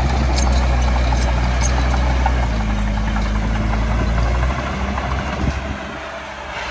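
Heavy diesel engine of earthmoving machinery running with a deep, steady rumble that drops away about four and a half seconds in, with a few light clinks near the start.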